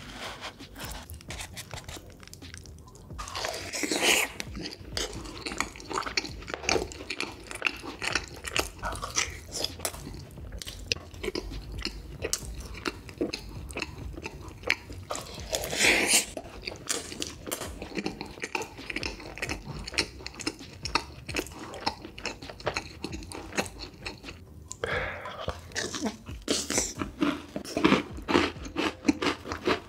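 Close-miked eating sounds of a man biting into and chewing syrup-glazed donuts and chocolate cake: steady wet chewing with crunching, and louder bites about four seconds in, around sixteen seconds, and again near the end.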